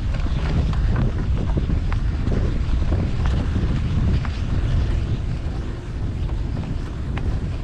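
Wind buffeting the microphone of a riding cyclist's camera, a steady low rumble, with street traffic noise beneath and a few faint short ticks.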